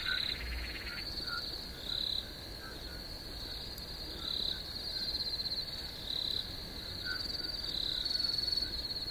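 Night ambience of crickets trilling, with frogs croaking.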